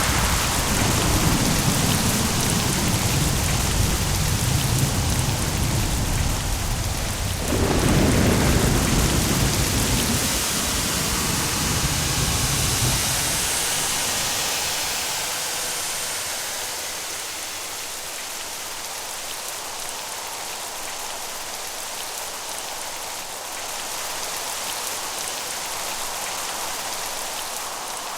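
Steady heavy rain with rolling thunder. A deep rumble surges again about a quarter of the way in, then fades out around the middle, leaving only the hiss of rain.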